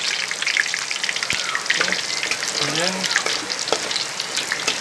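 Sliced shallots frying in hot oil in a wok: a steady, dense sizzle full of small crackles as they are stirred with a spatula.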